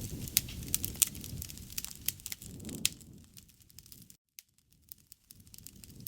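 Wood fire crackling, with sharp pops and snaps over a low rush of flames. The sound drops out for about a second about four seconds in, then fades back in.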